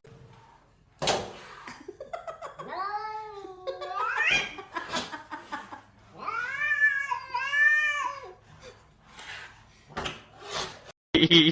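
A cat yowling: two long drawn-out calls, the first about two and a half seconds in and rising at its end, the second a few seconds later and wavering up and down. Scattered knocks sound between them.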